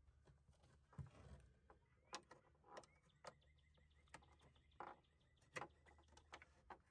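Near silence: a low steady hum with faint, scattered small clicks and a soft thump about a second in.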